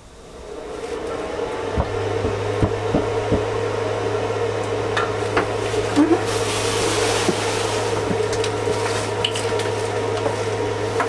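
A small motor-driven machine starting up and running with a steady hum, with scattered light clicks and knocks.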